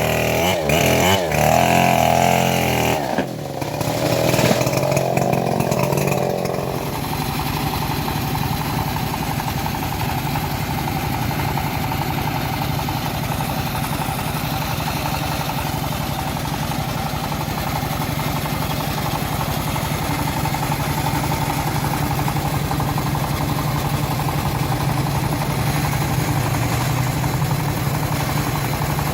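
Engine of a homemade bandsaw mill running: its pitch wavers and changes for the first several seconds, then it settles into a steady drone.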